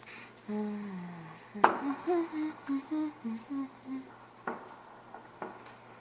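A person humming a short tune: one long falling note, then about eight short notes. A sharp click comes just before the short notes, and a few fainter clicks follow near the end.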